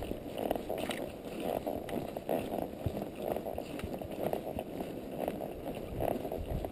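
Wind buffeting the microphone during a horseback ride at a walk, with faint hoofsteps under it.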